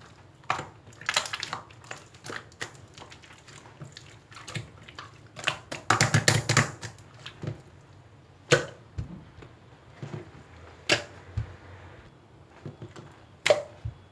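Scattered clicks, taps and knocks of objects being handled, with a quick flurry of them about six seconds in and single sharper knocks near nine, eleven and thirteen and a half seconds.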